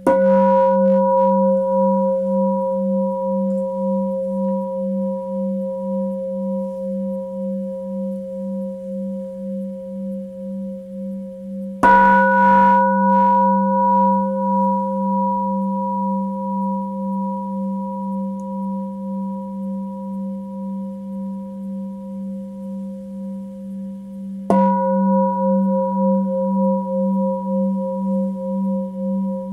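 Tibetan singing bowl struck three times, about twelve seconds apart. Each strike rings on and slowly fades, a low hum with a steady pulsing wobble under higher overtones.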